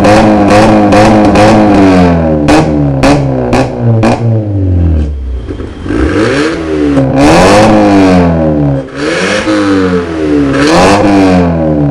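VW Golf engine revved repeatedly through an aftermarket electronic valved exhaust, the revs rising and falling in several blips. A run of sharp cracks sounds from the exhaust about two to four seconds in.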